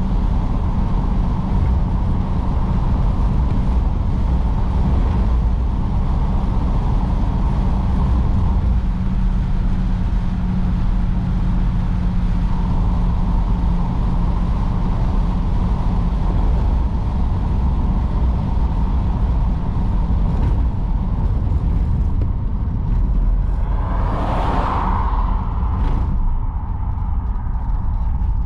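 A 1953 Oldsmobile Super 88 being driven: a steady low engine and road rumble with a steady hum that fades out about halfway. Near the end a brief whoosh swells and dies away.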